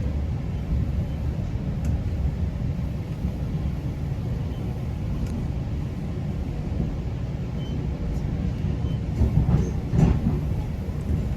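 Steady low rumble of a GO Transit commuter train running along the track, with a few louder knocks near the end.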